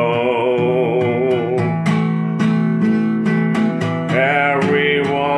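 Song: a male voice holds the word "soul" with vibrato over strummed guitar. The voice then stops and the guitar strums chords alone for about two seconds before the singing comes back near the end.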